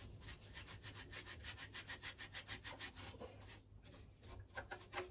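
Quick, even rubbing or scraping strokes on the mower's housing, about six a second, with a short pause a little past three seconds in.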